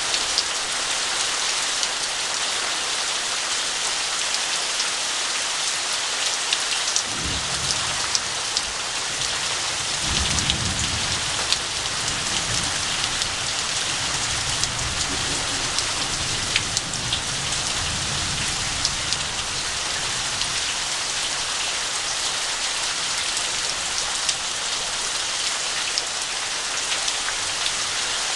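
Heavy rain falling steadily, with a low rumble of thunder that starts about seven seconds in, swells a few seconds later and dies away after about ten seconds.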